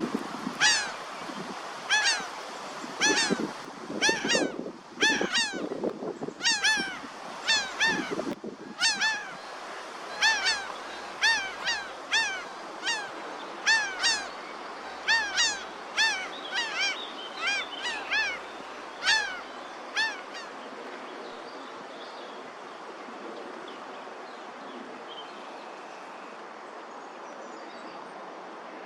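Laughing gulls calling, a run of short, arched, nasal call notes about once a second, some overlapping, that stops about two-thirds of the way through. A steady background hiss is heard throughout, alone near the end.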